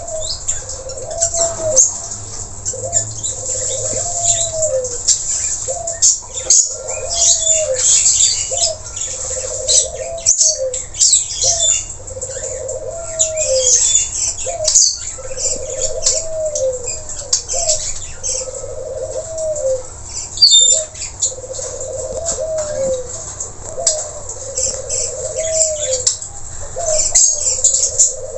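Long-tailed parakeets (nuri tanau) calling continuously in shrill, rapid chirps and screeches, over a low cooing call repeated about every two seconds.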